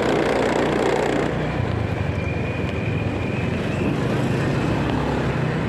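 Motorcycle engine running steadily while riding in city traffic, with road and wind noise.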